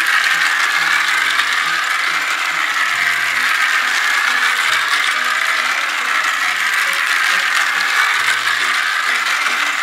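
Battery-powered Peppa Pig toy train running round a circular plastic track: a steady whirring, ratcheting rattle from its small gear motor, rising and falling in a slow wave.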